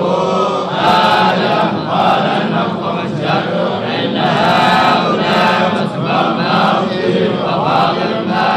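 Quran recitation chanted melodically by a male voice in continuous phrases that rise and fall in pitch.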